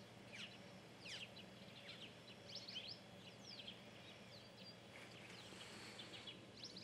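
Faint birdsong: many short, high chirps and quick downward whistles, scattered and irregular, over a quiet outdoor background.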